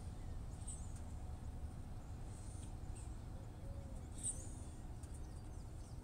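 Small birds giving several short, very high chirps, faint over a steady low outdoor rumble, with a soft low note about four seconds in.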